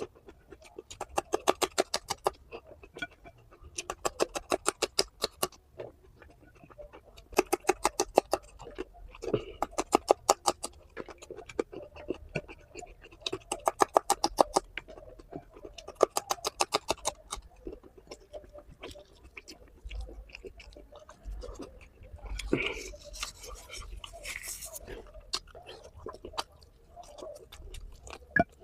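Close-up eating sounds of a person eating curry and rice: bursts of rapid wet clicking, each about a second long, every couple of seconds, with a louder, noisier crunch about three-quarters of the way through.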